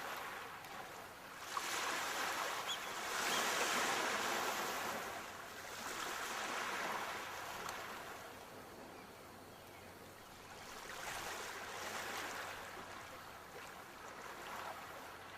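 Sea waves breaking and washing on the shore, the surf swelling and fading in slow surges, about three of them.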